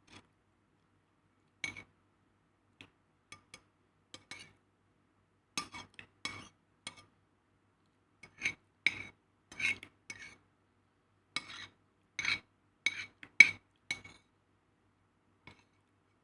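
Metal spoon scraping and clinking against a plate in a string of short, irregular strokes. The strokes come thicker and louder in the second half.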